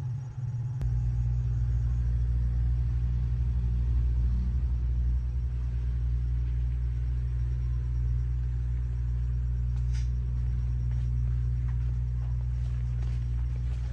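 An engine running steadily with a low, even rumble that grows fuller about a second in.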